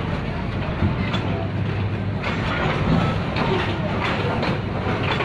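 Wagons of a long Pakistan Railways freight train rolling past close by: a steady, loud noise of steel wheels on the rails, broken by irregular clacks from the wheels.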